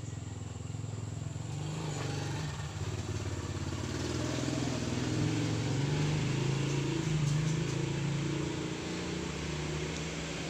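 A motor vehicle engine running, its pitch wavering, growing louder toward the middle and easing slightly near the end.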